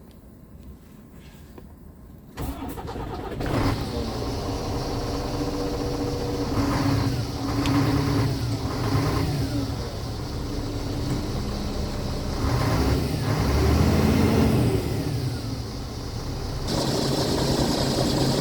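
Scania R truck's diesel engine starting suddenly about two seconds in, then running with its pitch rising and falling a few times as the throttle is blipped.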